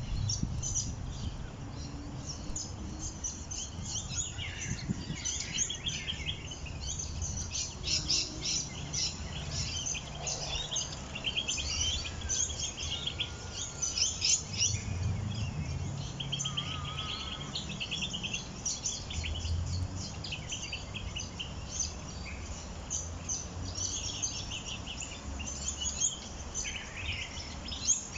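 A flock of small birds chirping and twittering together, a dense, continuous run of short high chirps, over a low rumble.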